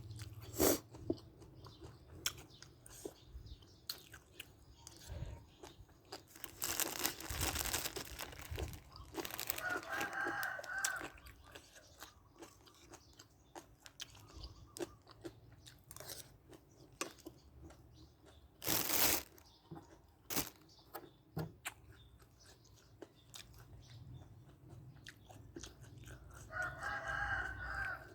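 Close-up eating sounds: chewing and biting into crunchy food, a scatter of small crunches. A rooster crows twice in the background, about ten seconds in and near the end.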